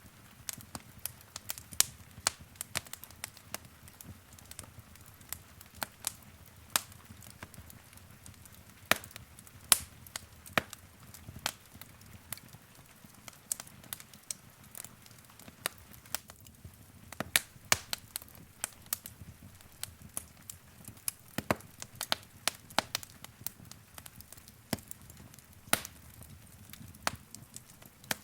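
Wood fire crackling in a fireplace: irregular sharp pops and snaps, several a second, over the low, soft rush of the flames.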